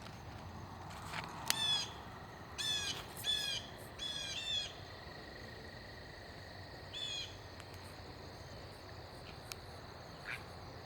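Blue jays calling: a run of short, harsh calls, several in quick succession in the first half and one more later. A faint steady insect trill runs underneath.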